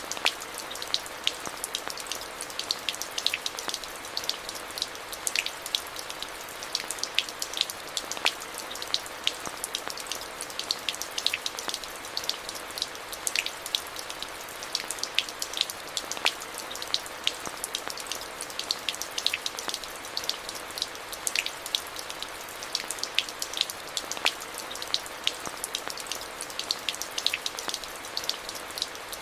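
Steady rain: an even hiss with many sharp, irregular drop impacts close by.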